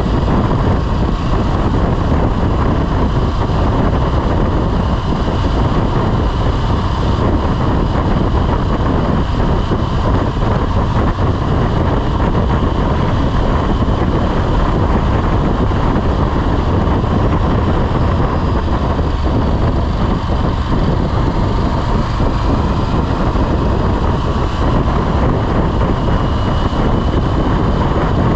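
Motorcycle on the move at a steady speed: the engine running evenly under heavy wind rush over the microphone.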